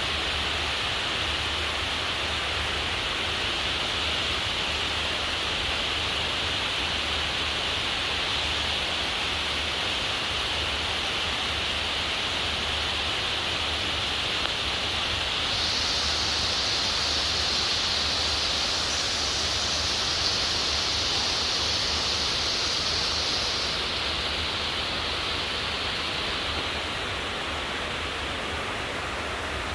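Heavy rain pouring down as a steady hiss. The hiss grows brighter and slightly louder about halfway through, then eases off near the end.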